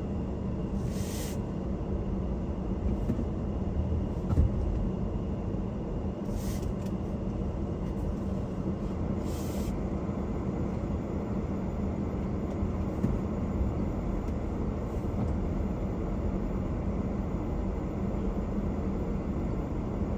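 Car driving on winter city streets: a steady low road rumble and tyre noise with a constant hum, a few short hissing swishes, and a single bump a little over four seconds in.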